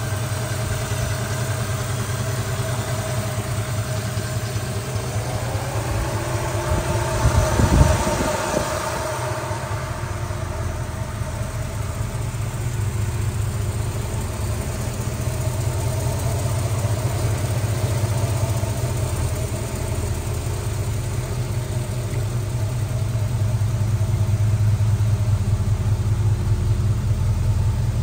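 351 Windsor V8 crate engine breathing through Pacemaker extractors and a 2¼-inch mild steel exhaust, idling steadily. It is revved once, briefly, several seconds in, then settles back to idle. The idle grows a little louder near the end.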